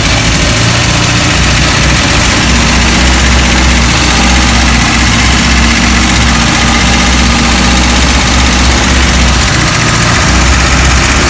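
1959 Ford Zephyr Six's 2.6-litre straight-six engine running steadily at idle, with the air cleaner off the carburettor, just after its first start in years.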